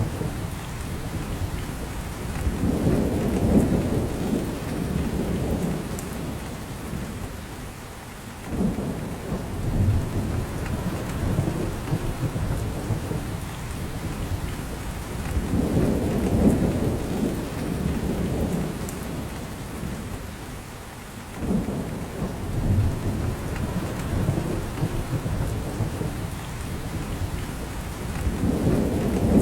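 Steady rain falling in a spruce forest, with drops coming down from the branches. Low rumbling swells rise and fade every five or six seconds underneath it.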